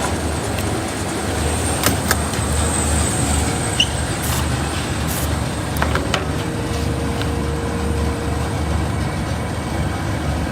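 Folding-box tape-applying machine running in automatic mode: a steady mechanical running noise with a pulsing low hum and a few sharp clicks.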